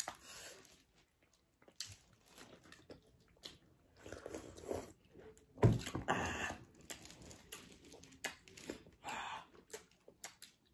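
Close-up mouth sounds of a person chewing and biting into food, with small wet clicks and smacks between breaths. A dull knock a little past halfway is the loudest sound.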